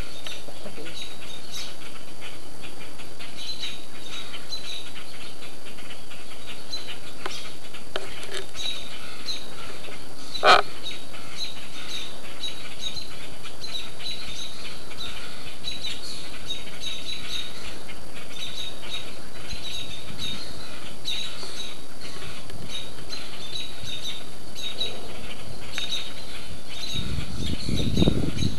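A crowd of small birds giving short, high, rapidly repeated chirping alarm calls, the sound of birds mobbing a hawk that has caught a fledgling. A single sharp click comes about ten seconds in, and a low rumble near the end.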